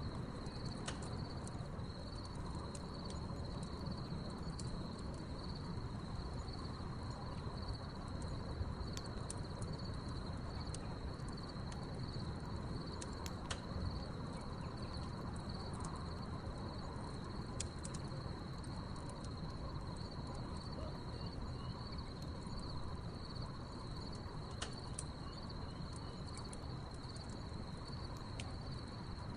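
Wood fire crackling with scattered sharp pops, over a steady high trilling of crickets chirping.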